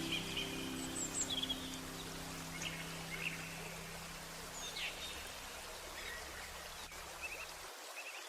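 Small songbirds chirping in short, scattered calls over a steady rush of flowing water. A held low music chord fades underneath and stops near the end.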